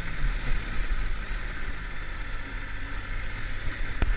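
Triumph Tiger 1200's three-cylinder engine running at a steady low rumble under wind noise on the camera microphone while riding, with a single sharp click near the end.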